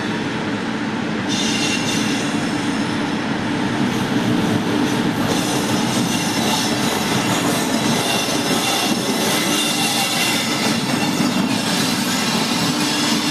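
Train running along the rails, with a steady low rumble and high metallic wheel squeal that sets in about a second in and continues.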